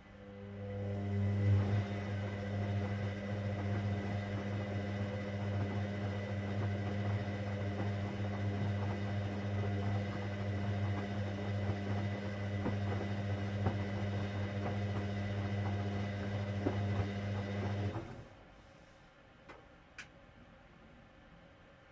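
Hoover Dynamic Next washing machine giving off a steady electric hum with a rushing water noise, rising in over the first second or two, then cutting off suddenly about eighteen seconds in. A faint tick follows a couple of seconds later.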